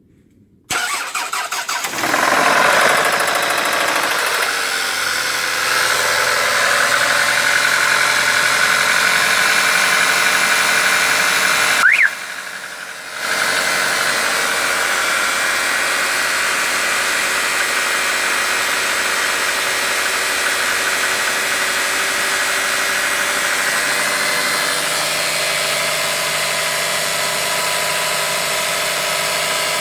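Toyota Camry Gracia's 5S-FE 2.2-litre four-cylinder engine cranked on the starter and catching about two seconds in, then idling steadily with a knock. The owner cannot tell whether the knock comes from the engine's bottom end or the camshafts, while the service station calls it an engine knock.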